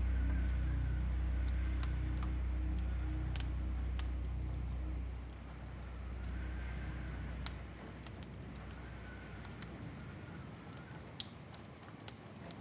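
Fireplace crackling: scattered small pops and snaps over a low soft drone. The drone fades about five seconds in and swells again near the end.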